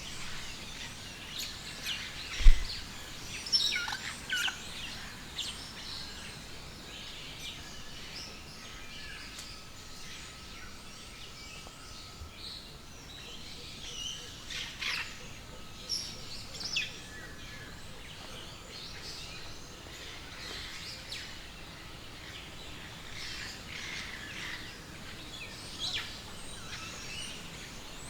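Many birds chirping and calling, short high notes scattered throughout over a steady background hiss. A single loud low thump about two seconds in.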